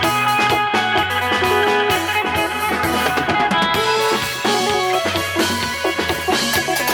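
Band music at a sound check: drum kit keeping a steady beat with bass drum and rimshots, over guitar and bass.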